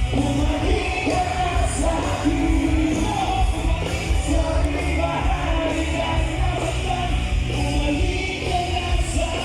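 Live band music with a singing voice over a heavy bass and drum beat, echoing as in a large venue.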